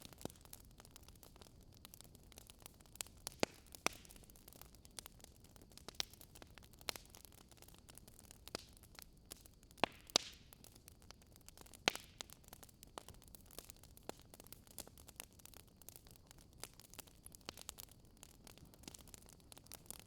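Wood fire crackling in a fireplace: irregular snaps and pops over a faint steady hiss, the loudest pops about ten seconds in.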